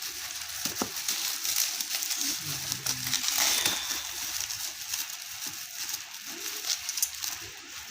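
Packaging crinkling and rustling as the nebulizer's box is unpacked by hand, an irregular crackle throughout.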